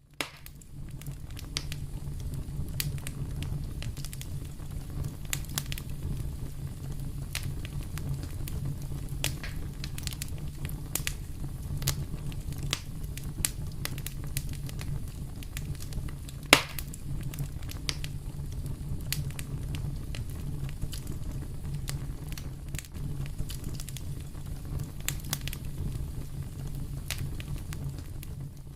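Wood fire in a fireplace crackling, with a steady low rumble of flames under frequent irregular pops. One sharp pop, louder than the rest, comes about halfway through.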